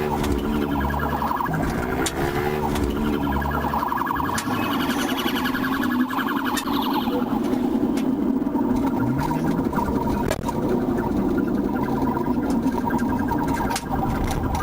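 Police car siren sounding during a pursuit, a rising and falling wail that changes to faster pulsing stretches, over steady vehicle noise.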